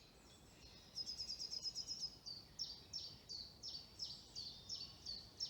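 Songbird singing: a quick high trill, then a string of high down-slurred notes, about three a second, that carries on to the end.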